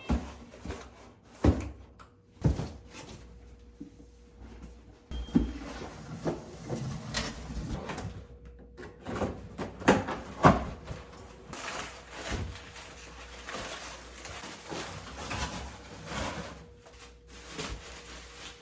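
Irregular knocks, clicks and rustling of things being handled, like cupboards or drawers and objects being moved about, over a faint steady hum.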